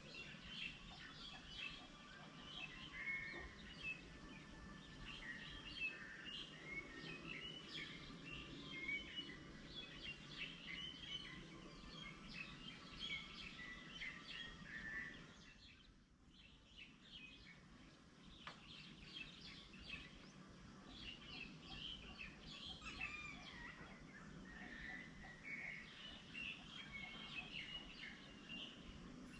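Faint chorus of birds: many short chirps and calls overlapping one another, over a low steady background hum. The calls die away briefly about halfway through, then pick up again.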